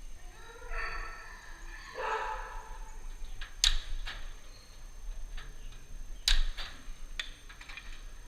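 Two short calls from a farm animal, the first about half a second in and the second about two seconds in. Two sharp knocks follow, one in the middle and one near the end, and these are the loudest sounds.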